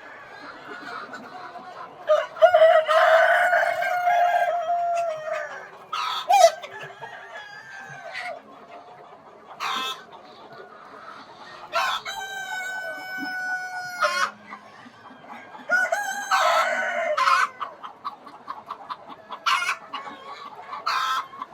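Peruvidai country chickens: roosters crow three long times, about two, twelve and sixteen seconds in, with short clucking calls from the flock between.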